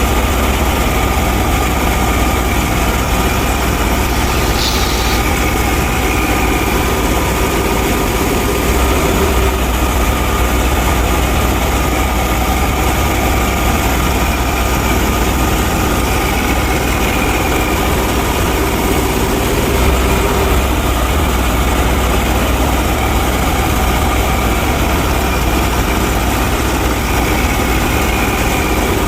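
Engine idling steadily, a continuous low, even drone.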